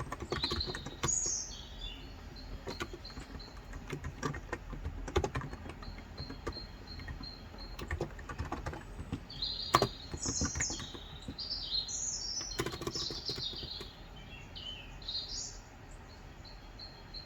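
Irregular keystrokes on a Cox Endeavour electrostatic capacitive (non-contact) 35 g tenkeyless keyboard, with birds singing: a short burst of song about a second in and a longer run of chirps through the middle of the stretch, along with a row of quick, even high notes.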